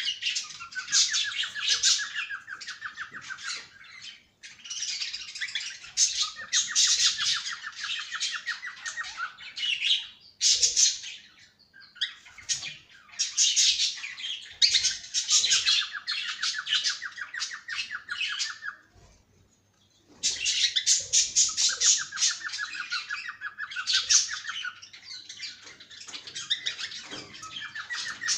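Cockatiel chirping and squawking in repeated bouts, each bout including a rapid buzzy trill. There is a short pause about two-thirds of the way through.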